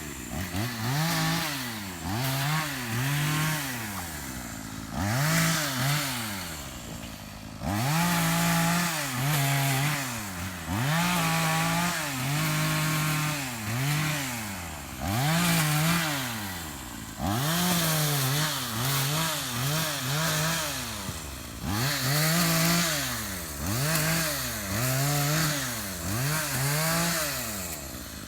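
Chainsaw revved up and down over and over, its pitch rising and falling about once a second, while cutting wood.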